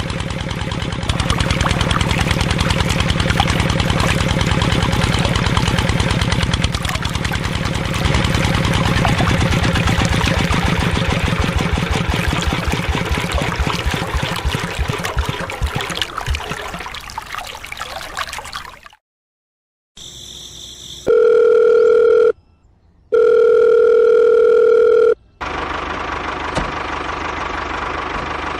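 Small diesel engine running, its firing beat slowing over a few seconds as it winds down and stops. After a short gap come two long steady electronic beeps, then a steady running sound returns near the end.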